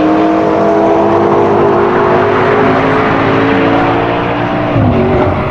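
A car's engine running hard on a race track, its note falling gradually, then dropping sharply about five seconds in.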